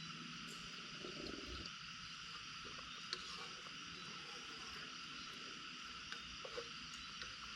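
Steady chorus of forest insects in several even, unbroken pitches, with a few faint clicks and knocks of small handling sounds.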